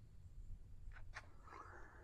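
Near silence: faint room tone with a low hum and two faint short clicks about a second in.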